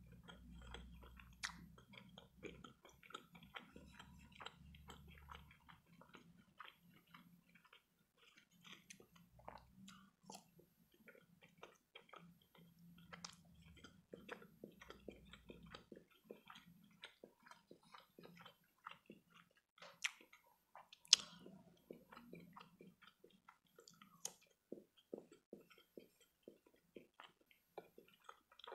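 Faint chewing of imitation crab sticks, with many small, irregular mouth clicks and a single louder click about twenty seconds in.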